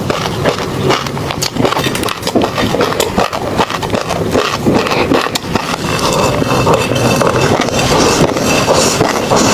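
Close-miked mouth eating tobiko (flying fish roe): wet chewing with a dense run of small pops and clicks as the eggs burst, thickening into a steadier crackle about six seconds in.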